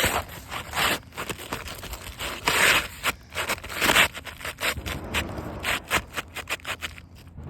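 Irregular scraping with many short clicks, with two louder, longer scrapes about two and a half and four seconds in.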